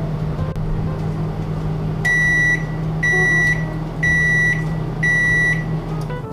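Microwave oven running with a steady hum, then four high beeps about a second apart as its timer runs out; the hum stops near the end.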